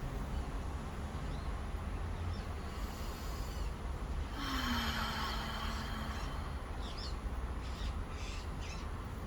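Steady low rumble of road traffic, with an audible breath out about halfway through.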